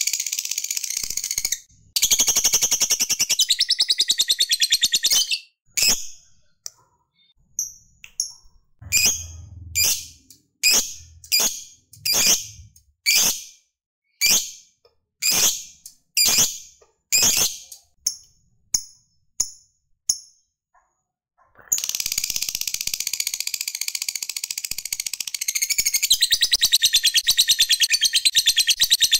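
Lovebird ngekek, the long chattering trill, as a rapid high rattle. About five seconds in it breaks into a string of separate short chirps, and the long rapid trill starts again about three-quarters of the way through.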